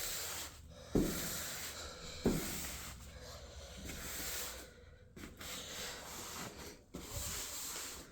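Scrubbing and rubbing against a surface, a rough hissing noise that stops and starts, with two sharp knocks about one and two seconds in.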